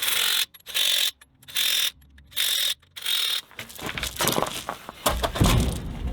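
A power wrench runs lug nuts in short bursts, about five in the first three and a half seconds. Then come irregular metal clattering and a few heavy knocks.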